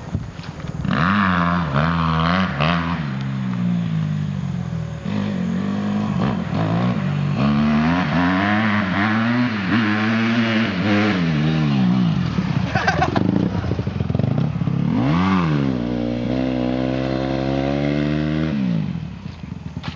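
2008 Honda CRF150RB dirt bike's single-cylinder four-stroke engine revving up and down again and again as it is ridden, holding a steady pitch for a couple of seconds near the end before easing off.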